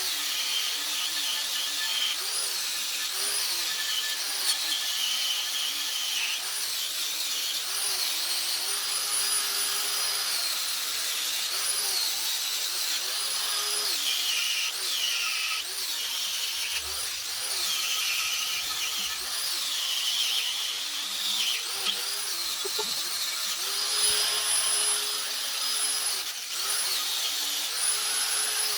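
Handheld electric power tool stripping paint from an AMC Model 20 axle housing down to bare metal; its motor whine dips in pitch each time it is pressed into the metal and climbs back when the load eases, over and over.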